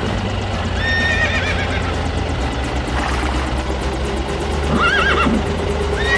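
Horse whinny sound effects: one call with a quavering pitch about a second in and a shorter, wavering one about five seconds in, over a steady low hum.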